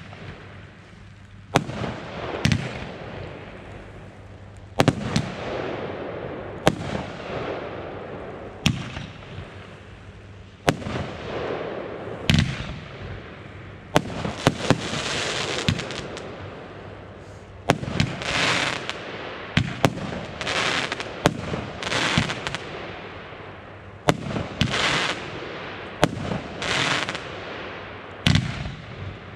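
Consumer fireworks going off: a series of sharp bangs about every two seconds. From about halfway they give way to longer, denser stretches of crackling bursts mixed with further bangs.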